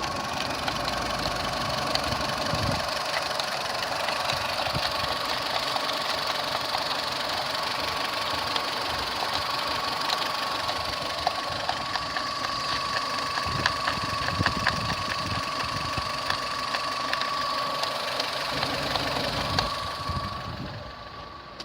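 A 2013 VW Polo 6R's 1.4 L four-cylinder petrol engine idling steadily during an engine test, with a steady high whine over it. The sound drops off a second or so before the end.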